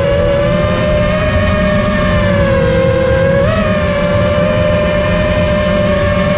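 Electric motor and propeller of a battery-powered RC aircraft running at steady high throttle: a strong, steady whine that sags a little and then jumps briefly about three and a half seconds in. Low rumbling wind noise on the microphone runs underneath.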